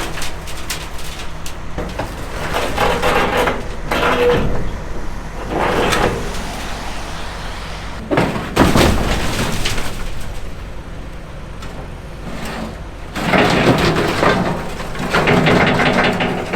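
Heavy equipment running: a loader's diesel engine under steady load, with irregular scraping and clanking as the bucket works gravel and old culvert pieces, loudest about halfway and again near the end.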